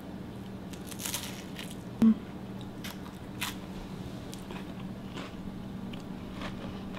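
A cracker topped with chicken salad being bitten and chewed, with short crisp crunches scattered through, over a faint steady hum. A single short thump, the loudest sound, comes about two seconds in.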